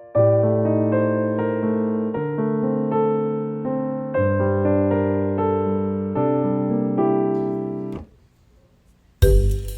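Background piano music with sustained chords that stops about eight seconds in. After a short near-silent gap, a sudden louder sound starts just before the end.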